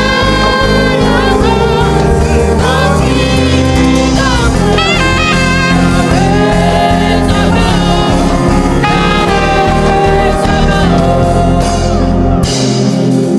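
Live gospel band playing: a wavering lead melody over sustained keyboard chords and bass. The low end drops out about a second before the end while the upper parts carry on.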